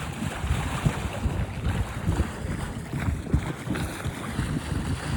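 Wind gusting across the microphone: an uneven, rumbling rush with no steady tone.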